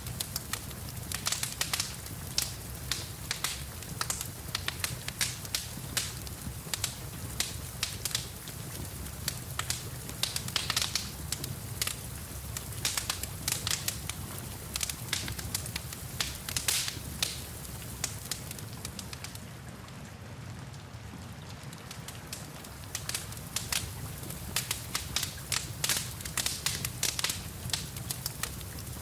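Wood fire in a fireplace crackling with many sharp pops over a steady low rumble and even hiss of rain. The popping thins out briefly about two-thirds of the way through, then picks up again.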